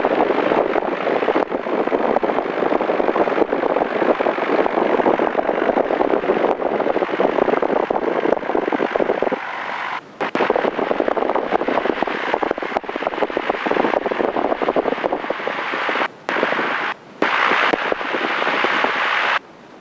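A small single-engine propeller airplane's piston engine running at taxi power, heard through the cockpit headset intercom with a rough, crackly character. The sound changes about halfway through and cuts out sharply three times in the last few seconds.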